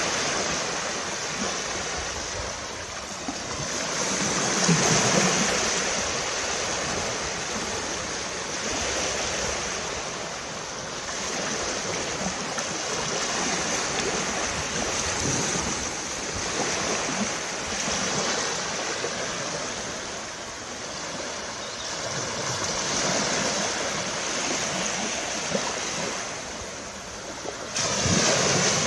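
Sea surf washing onto a beach, a steady rush of breaking waves that swells and ebbs every few seconds, loudest about five seconds in and stepping up suddenly near the end.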